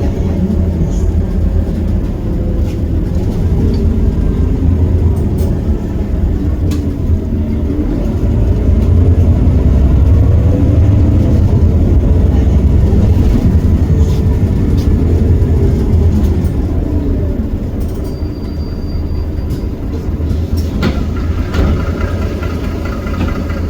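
Iveco Cursor 8 six-cylinder diesel of a Heuliez GX327 city bus heard on board under way, its pitch rising and falling with the ZF automatic gearbox. It is loudest in the middle stretch, then eases off toward the end.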